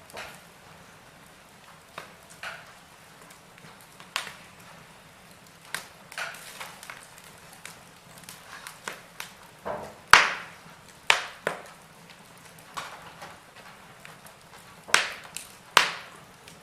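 Wood fire in a fireplace crackling: irregular sharp pops and cracks over a faint steady hiss, the loudest pop about ten seconds in and two more close together near the end.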